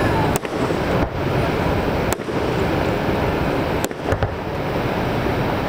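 Aerial firework shells bursting in the sky: about four sharp bangs spread over a few seconds, the last two close together, over a continuous rushing noise.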